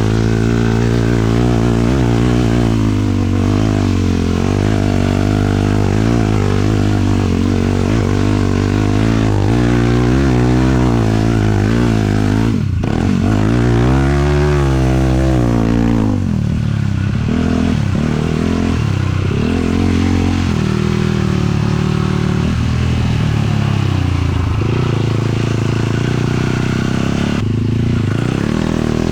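A 450cc single-cylinder four-stroke sport quad engine running under load, revving up and down as the throttle is worked. About twelve seconds in, the revs drop sharply, then climb and fall again several times.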